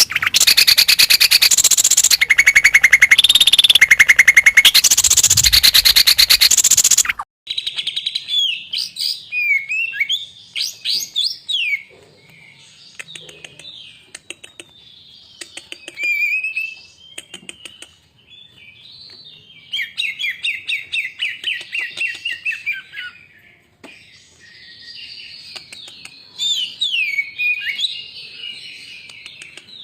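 Greater green leafbird (cucak ijo) song: varied sweeping whistles, chirps and fast trilled phrases in bursts with short gaps. It is preceded by a much louder, harsh, rapid rattling passage that cuts off suddenly about seven seconds in.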